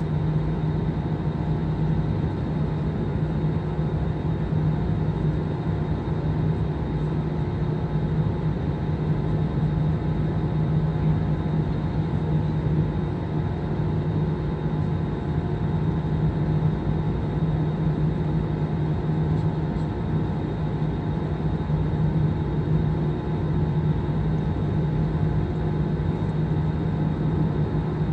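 Steady cabin drone inside an Airbus A320 airliner on the ground before take-off, with engines and air conditioning running. It has a strong, even low hum and a few faint steady tones above it.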